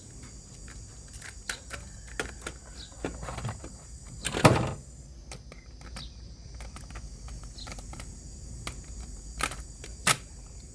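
Scattered clicks and knocks, with one louder clunk about four and a half seconds in, over a faint steady hum and hiss.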